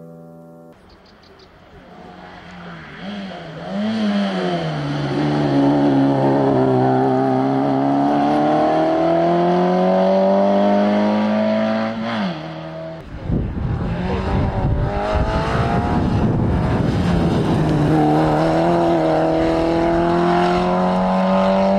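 Citroën AX Sport rally car's engine revving hard under acceleration, its pitch climbing steadily in each gear and dropping suddenly at the shifts. About thirteen seconds in the sound cuts abruptly to a low rumbling noise under the engine, which then climbs again.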